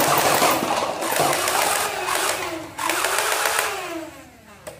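Battery-powered toy gun firing with a fast mechanical rattle. It breaks off briefly about three seconds in, resumes, then fades near the end.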